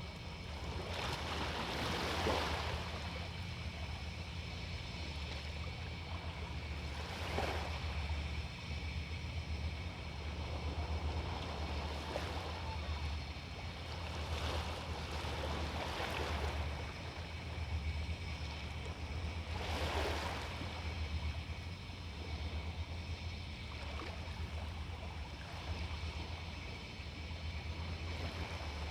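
Sea waves washing onto a beach, each surge of surf hissing in and fading, about five times, with the strongest surges about two seconds in and about twenty seconds in. A steady low rumble runs beneath.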